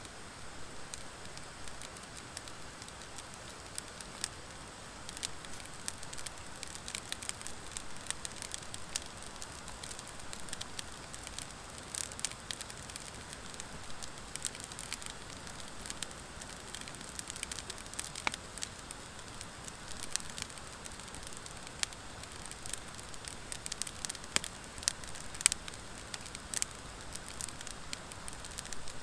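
Wood fire of driftwood and dry hardwood burning with a steady hiss and many sharp crackles and pops, which come more often in the second half.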